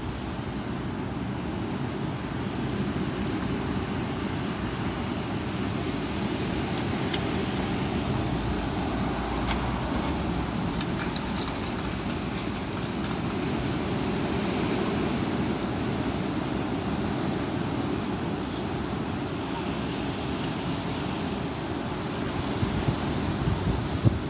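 Strong wind blowing and buffeting the microphone in a steady, low rumble, with a few faint clicks about ten seconds in.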